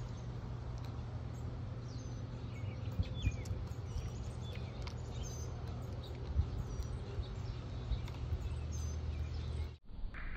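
Birds chirping faintly and intermittently over a steady low hum, with a few brief soft taps.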